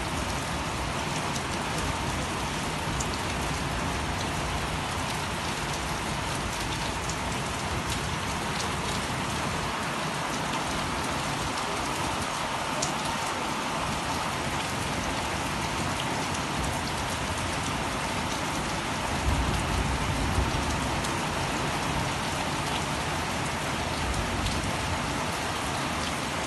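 Heavy rain falling steadily on trees and foliage: an even, dense hiss, with a few low bumps about two-thirds of the way through.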